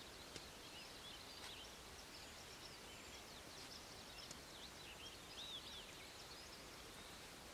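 Quiet outdoor stillness with faint, scattered bird chirps and short calls over a soft background hiss, and a couple of small clicks in the first second and a half.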